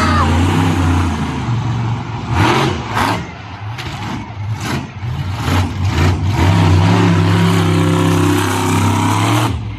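Racing engines running and revving on the oval, rising and falling in pitch. A steadier, louder engine note holds through the last couple of seconds and then cuts off suddenly.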